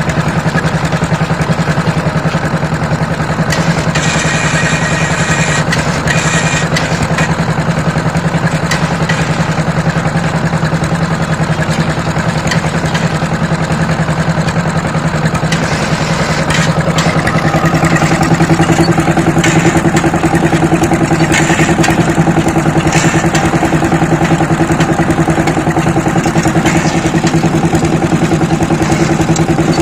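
Power tiller engine running steadily with a rapid, even firing beat. About 17 seconds in, a higher note joins and it gets slightly louder.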